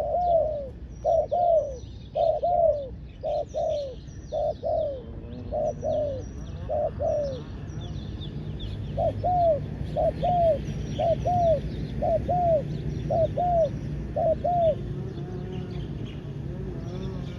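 Spotted dove cooing in quick paired, arching coos. The series pauses about seven seconds in, picks up again a second or two later, and stops about fifteen seconds in. Small birds chirp faintly and high in the background.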